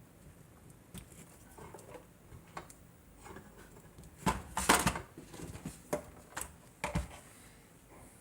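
Scattered clicks and knocks of handling, with a louder noisy clatter about four and a half seconds in.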